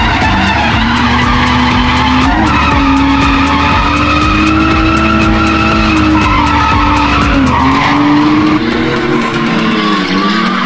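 BMW E46's swapped-in M54B30 3.0-litre straight-six held at high revs through a drift, the pitch dipping briefly a couple of times, with tyres skidding.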